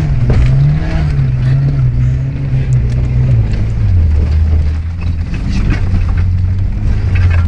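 Car engine running under load, heard inside the cabin while driving over a rough field; its note drops lower about halfway through as the revs fall. Scattered knocks and rattles come through over the engine.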